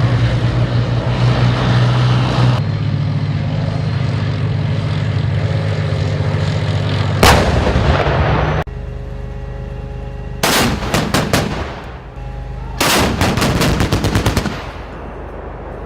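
Main battle tank's engine running steadily, then one loud blast about seven seconds in, followed by two bursts of rapid machine-gun fire.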